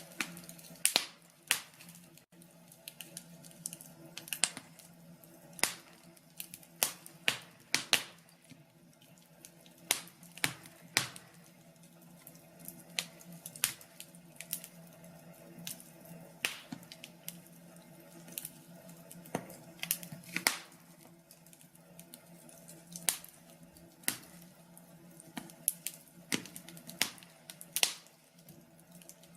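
Wood fire crackling: irregular sharp pops and snaps over a faint steady hum.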